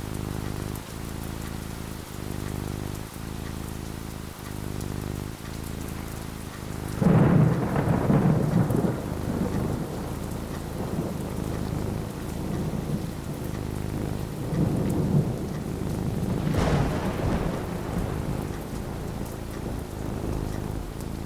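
Steady rain with two rolls of thunder: a loud rumble about seven seconds in, and another building from about fifteen seconds with a sharp crack near its end.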